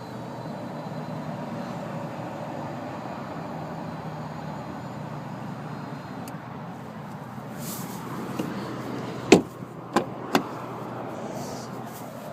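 Electric power-seat motor whirring steadily as the front seat slides forward, fading out about four seconds in. Later come three sharp knocks and clunks close together, the first the loudest, typical of a car door and seat being handled.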